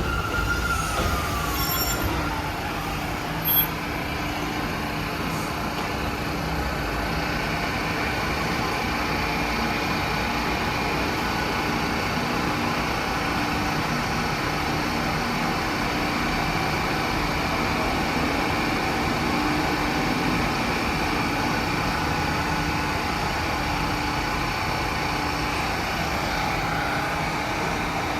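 New York City subway train. Its motor whine falls in pitch over the first few seconds as the train slows, then it settles into a steady hum. A short sharp click comes about three and a half seconds in.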